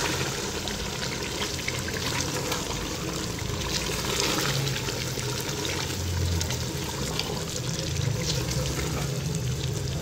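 Spinach, potatoes and meat in oil sizzling steadily in an aluminium pressure cooker over a high flame while a wooden spoon stirs them, with small scrapes and crackles through the hiss.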